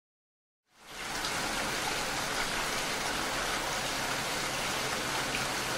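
Steady, heavy rain, starting from silence less than a second in and rising quickly to a constant even level, with a few faint drop ticks.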